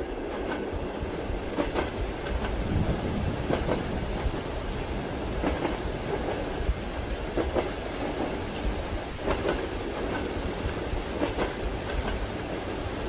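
Train wheels knocking over rail joints, the knocks coming in pairs roughly every two seconds, over a steady hiss of rain and a low rumble of the moving carriage.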